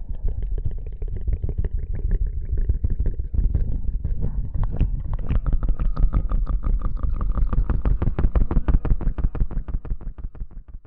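Close-miked ASMR rustling: rapid rubbing and scratching right on the microphone, many strokes a second over a deep rumble, breaking off near the end.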